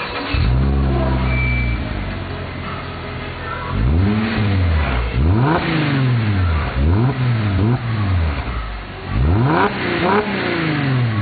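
Mercedes-Benz E350 V6 exhaust through a custom-made centre and rear muffler: the engine comes in suddenly and idles fast, then is revved several times in quick blips, its pitch rising and falling back to idle each time.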